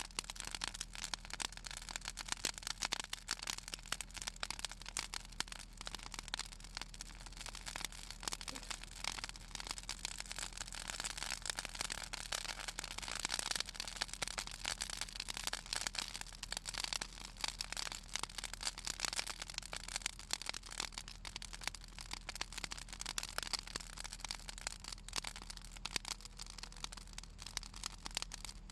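Southern magnolia branches burning in an open fire, crackling and popping continuously over a steady hiss; the oil in the wood makes it crackle.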